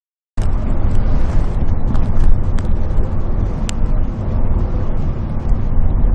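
A large bus on the road, with a steady, heavy low rumble of engine and road noise and a faint steady hum. It cuts in abruptly just after the start.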